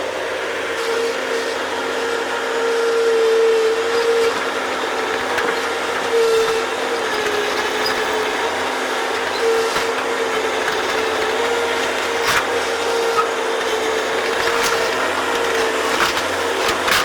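Bobcat digging machine running steadily under load, with a wavering whine that rises and dips and a few sharp knocks as it digs.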